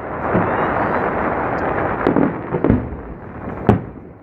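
Aerial fireworks bursting: a dense crackle that thins out over the first two seconds, then several separate booms, the sharpest near the end.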